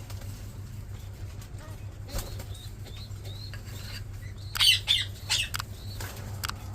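A hill myna flapping its wings in a few quick bursts a little past halfway, with a few faint, short, high chirps before them, over a steady low hum.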